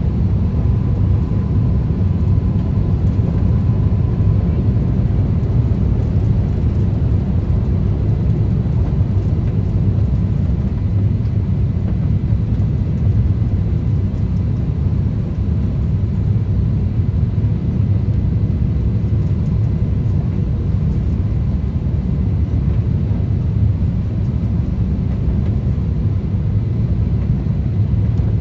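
Steady low rumble of an Airbus A350-1000 airliner, its engines and airflow heard as a constant drone with a faint thin tone above it.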